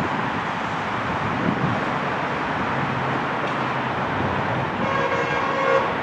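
A train's air horn sounds one short blast of about a second near the end, over a steady rumble of train and wind noise.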